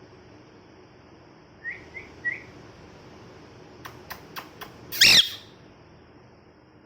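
Ringneck parrot calling: three short rising chirps, then a few sharp clicks, then one louder, harsher call about five seconds in.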